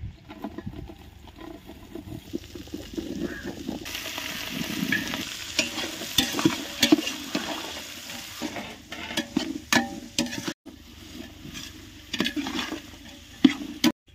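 Ladle stirring and scraping through green chillies, curry leaves and mint frying in hot oil in a large cooking pot, with clinks of the ladle against the pot. The sizzle swells about four seconds in and eases a few seconds later.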